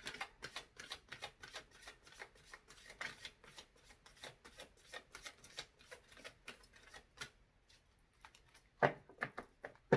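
Tarot cards being shuffled by hand: a rapid run of light card flicks and slaps that stops about seven seconds in, followed by a few louder sharp taps near the end.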